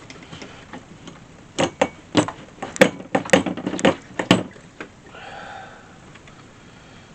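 A quick run of knocks and clatters from hard objects being handled: a dozen or so sharp knocks over about three seconds, starting a second and a half in, then quiet handling noise.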